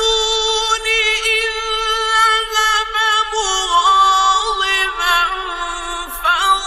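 A man reciting the Quran in the melodic, high-pitched mujawwad style: one long held note with ornamented turns, dropping a little in pitch about halfway, then a brief break and a new phrase near the end.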